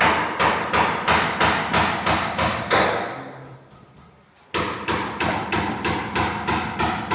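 Rapid, evenly spaced knocks like hammering, about four a second, each with a short ringing tail. They fade out from about three seconds in and start again suddenly at full level about a second and a half later.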